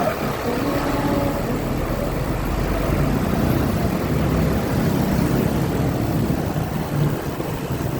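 Motor vehicle engine running steadily under road and wind noise while travelling.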